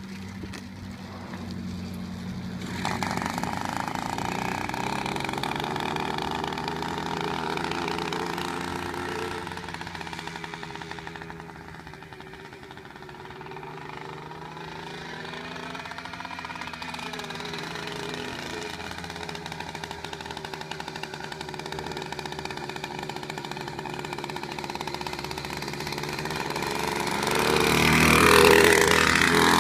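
Small engine of a home-built motorized bicycle running, its pitch rising and falling as it is ridden and throttled. It grows loudest shortly before the end.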